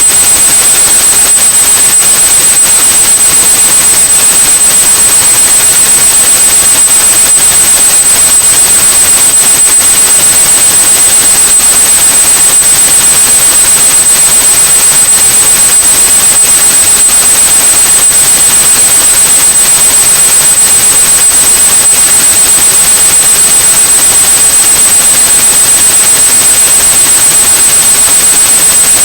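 Steady white noise with a continuous high-pitched 8100-hertz pure tone mixed in, unchanging throughout: a synthetic tinnitus-masking sound.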